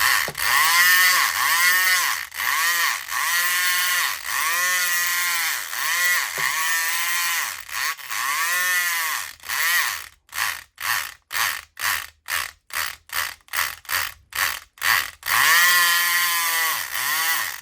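SouthOrd E500XT electric lock pick gun buzzing in runs as its trigger is squeezed and released, each run rising then falling in pitch. About ten seconds in it changes to short rapid pulses, roughly three a second, then a longer run near the end that cuts off suddenly.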